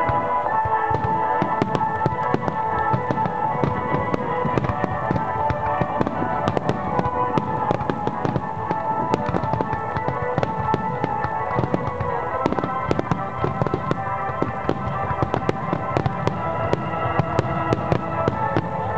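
Fireworks bursting and crackling in a dense run of sharp pops and bangs, with music playing steadily underneath.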